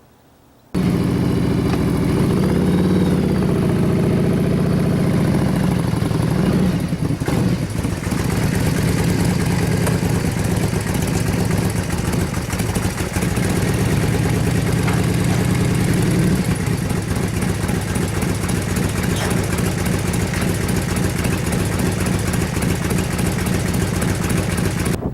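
Harley-Davidson Electra Glide's V-twin engine running, starting abruptly just under a second in. The revs rise and fall briefly a couple of seconds in, then the engine runs steadily.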